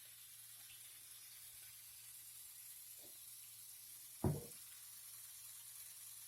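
Faint steady hiss with a low hum, broken by a single short knock a little over four seconds in and a softer tap just before it.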